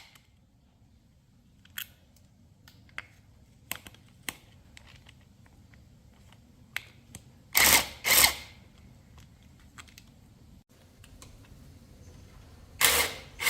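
Hand and power tools at work on a motorcycle: scattered light clicks and knocks, with two pairs of louder short noisy bursts, one pair about eight seconds in and another near the end.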